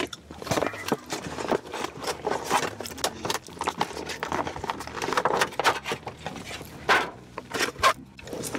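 Close-miked eating: irregular crisp crunching and chewing, with many small crackles and mouth clicks.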